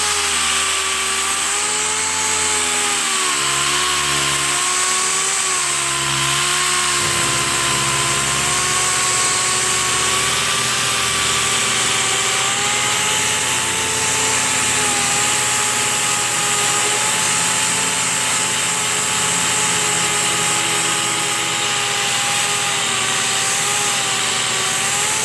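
Dual-action (DA) sander with 80-grit paper running continuously against the anodized finish of a GM pickup's tailgate trim band, sanding it off. Its pitch dips and wavers a little in the first few seconds as it is pressed into the work, then holds steady.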